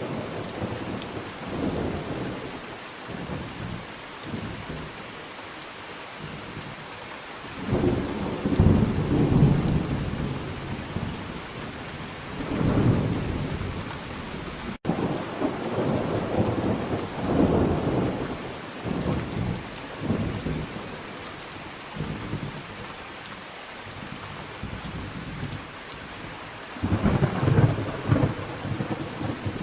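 Thunderstorm: steady heavy rain with thunder rolling again and again, the loudest rumbles about a third of the way in and near the end. The sound cuts out for an instant about halfway.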